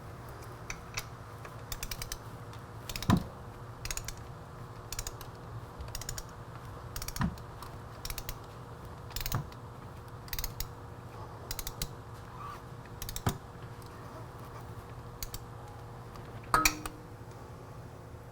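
Ratchet wrench clicking in short bursts, about one burst a second, as the new oil filter on a Honda CBR600RR is wound on and snugged down. A few louder knocks mix in, the loudest a little past three seconds and near the end.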